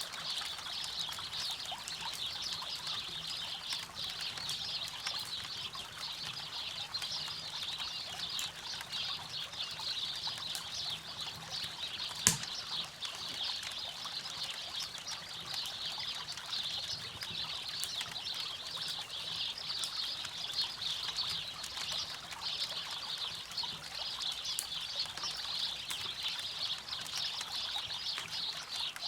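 River water running steadily with a campfire crackling faintly over it, and one loud sharp pop from the fire about twelve seconds in.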